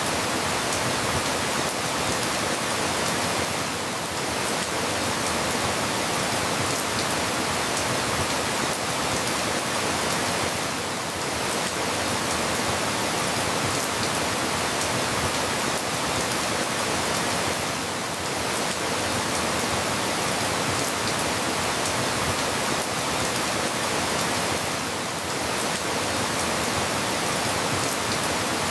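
Steady, dense rain, an even hiss with no single drops standing out. The loudness dips slightly about every seven seconds.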